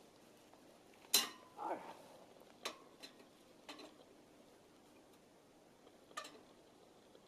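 Metal camp gear being handled: a sharp clank about a second in, followed by a short falling squeak, then three lighter metallic knocks over the next few seconds, each with a brief ring.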